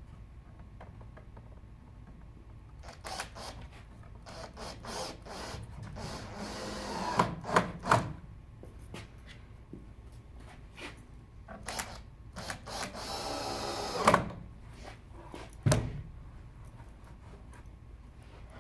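Woodworking sounds: scattered knocks and clatter of wooden parts being handled, with two short runs of a tool, each a few seconds long and each ending in a sharp knock, the later run about twelve and a half seconds in.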